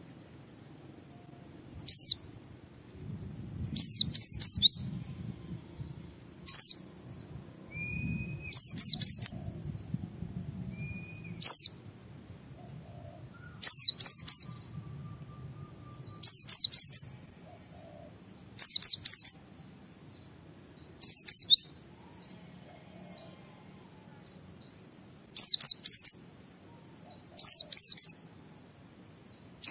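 White-eye (pleci) singing in short bursts of rapid, high twittering, repeated about every two seconds. Twice near the middle there is a brief, lower whistle.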